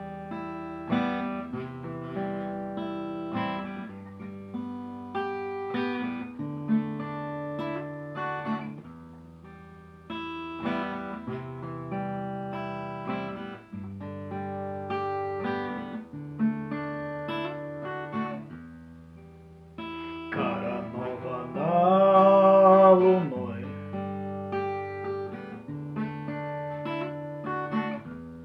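Acoustic guitar playing the song's instrumental intro, picked and strummed chords changing every couple of seconds. About two-thirds of the way through, a louder held note with a wavering pitch sounds over the guitar for a couple of seconds.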